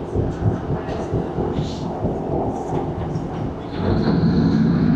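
Cabin sound of a British Rail Class 150 diesel multiple unit on the move: a steady low rumble from wheels and body, with scattered knocks and rattles. Near the end the sound grows louder into a steady drone with a humming tone.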